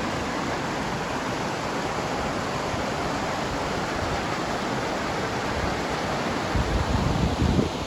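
Steady pink noise, an even full-range hiss. A louder low rumble rises under it about six and a half seconds in and stops just before the end.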